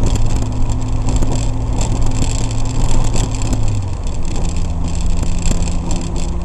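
Renault Espace's 2.0 engine, fitted with a big turbo, running while the car is driven, heard from inside the cabin. Its steady tone changes to a higher pitch about four seconds in, with a crackling hiss over it.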